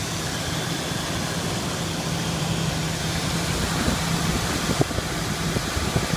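Truck engine idling steadily with the air conditioning running, a constant hum over an even whir. A few light knocks come in near the end.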